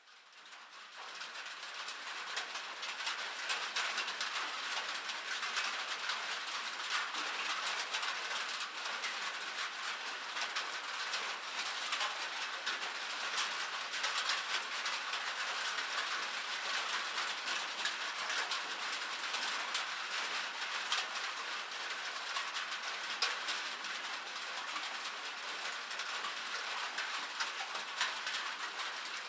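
Rain pattering steadily on a surface, a dense crackle of countless small drop impacts, fading in over the first couple of seconds.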